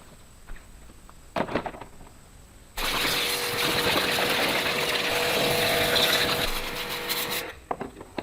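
A few light clicks, then a power tool motor starts abruptly about three seconds in, runs with a steady whine and a rush of noise for about four and a half seconds, and cuts off, followed by more clicks.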